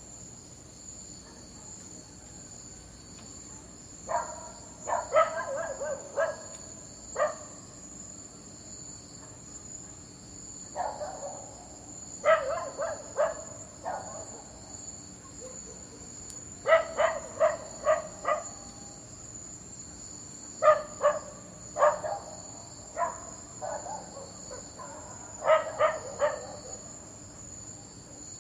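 A dog barking in short bursts of several quick barks, with pauses of a few seconds between the bursts. A steady high insect chirring, like crickets, runs underneath.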